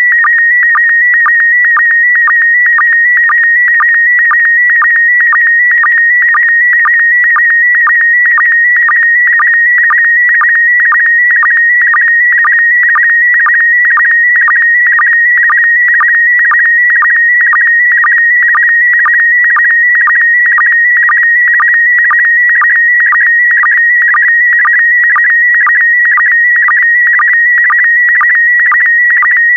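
PD120 slow-scan TV image signal: a continuous high, warbling tone carrying the picture, broken about twice a second by a short lower-pitched sync blip that marks each new pair of scan lines.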